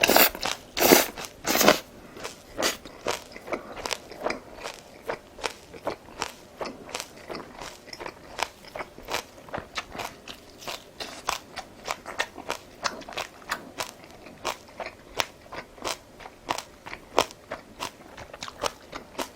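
Close-miked chewing of crunchy food: a steady run of crisp crunches, about two to three a second, loudest in the first couple of seconds.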